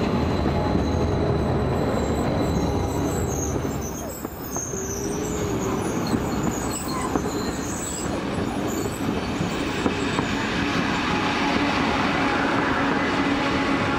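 A Rhaetian Railway electric passenger train pulling into the station and slowing, its running gear rumbling and rattling on the track. High, thin squeals come from the wheels and brakes from about two seconds in until about eight.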